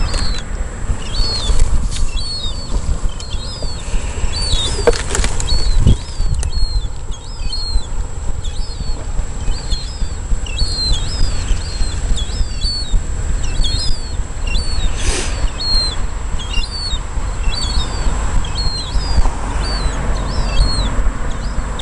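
A small bird chirping over and over, short high hooked notes about two a second, over a steady low outdoor rumble.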